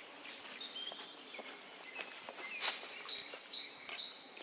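A songbird repeating short, high notes that fall in pitch, about three a second, from about halfway through, with scattered faint chirps before. A few sharp crackles of a thin plastic bag being rummaged in come through the song.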